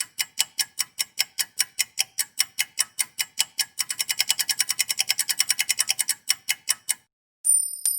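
Rapid mechanical ticking, about five ticks a second, quickening to about eight a second around four seconds in and stopping suddenly near the end. Moments later a bright, high metallic ding rings out.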